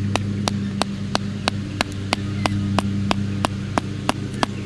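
The back of a knife blade hammering a sharpened wooden stake in, with steady, evenly spaced taps about three a second.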